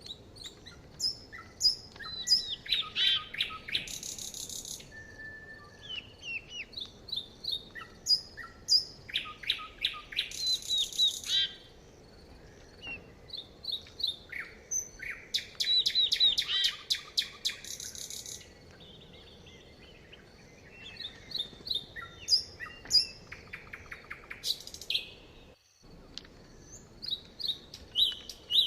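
Songbirds singing: a loud, rapid trilled song comes three times, about a second to three seconds long each, with many short high chirps and calls from other birds in between.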